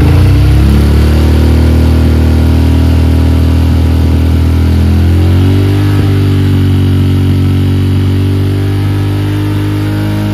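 Honda CRF single-cylinder four-stroke motorcycle engine held steadily at raised revs, easing down a little about halfway through, while the charging system is being tested for a charging fault that leaves the battery flat.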